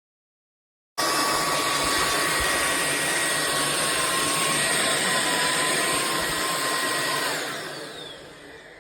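SunSare cordless stick vacuum running at speed, a steady rushing whine that starts abruptly about a second in. Near the end it is switched off and its motor winds down, the whine falling in pitch as it fades.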